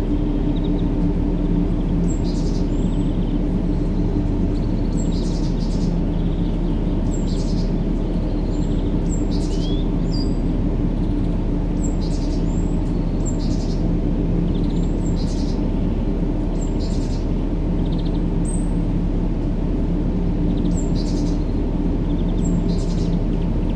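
A steady, low, rumbling sleep-noise track with a faint hum, overlaid with short high bird chirps every second or two.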